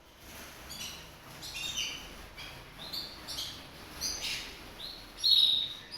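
Canary singing: a run of short, high chirps and trills, with one louder phrase near the end.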